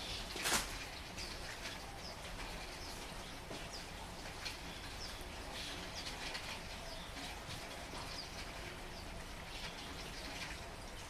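Steady heavy rainfall, with one sharp knock about half a second in and scattered short high chirps through it.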